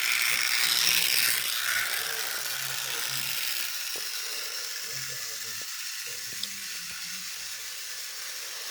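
Small battery-powered toy train motor and gears whirring with a high, hissy buzz that slowly fades. The motor is struggling, a problem the owner thinks may need a motor repair.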